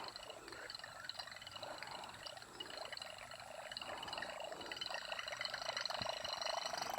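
Water trickling or pouring, slowly growing louder toward the end.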